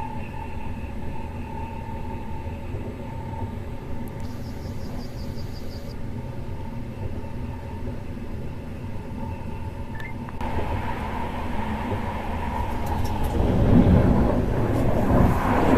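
Finnish InterCity2 passenger train running along the line: a steady rumble with a constant whine near 1 kHz. From about two-thirds in the running noise grows louder and rougher, with a few sharp clicks near the end.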